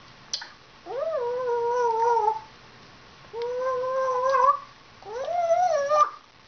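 African grey parrot giving three drawn-out pitched calls, each swooping up and then held, with a short click just before the first.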